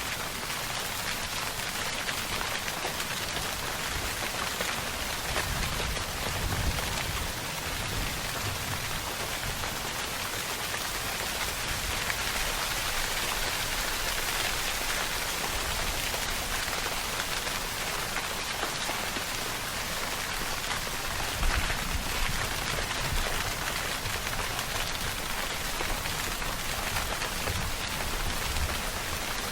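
Steady rainfall: a dense, even hiss of drops on a surface. Twice, a little after the start and again about two-thirds through, there is a brief low thud.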